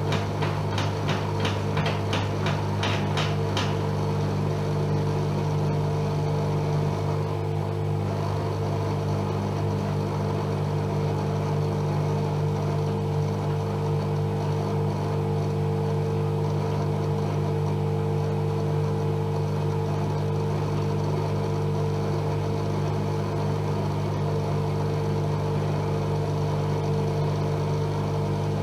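AEG Öko-Lavamat Lavalogic washing machine running with a steady motor hum. For the first few seconds a rapid, even clicking of about four strokes a second sounds over it, then stops.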